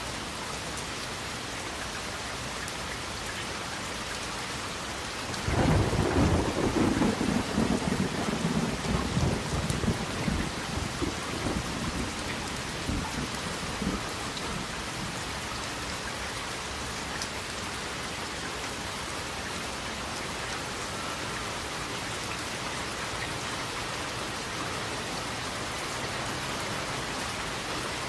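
Steady rain falling, with a single roll of thunder that breaks in suddenly about five seconds in and rumbles low, fading back into the rain over the next eight seconds or so.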